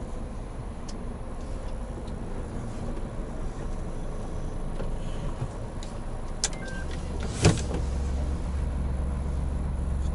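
Hino Profia heavy truck heard from inside the cab, its engine running with a steady low rumble that deepens and strengthens from about seven seconds in. There are a few light clicks, and one short sharp knock or hiss a second later.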